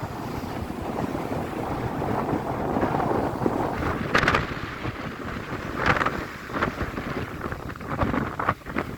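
Black Sea waves washing on the shore, with wind buffeting the microphone. A few short, sharper sounds stand out about four and six seconds in and again near the end.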